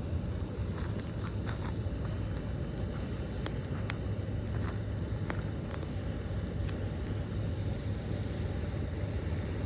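Campfire crackling, with scattered sharp pops and snaps, the loudest about four and five seconds in, over a steady low rush.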